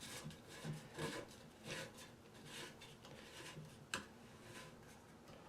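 Faint scraping and rubbing of a toilet valve's lock nut being screwed on by hand, with one sharp click about four seconds in.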